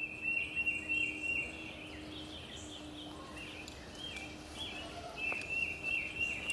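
Outdoor ambience with a bird chirping in quick runs of repeated high, falling notes, in two bouts near the start and near the end, over a faint steady hum.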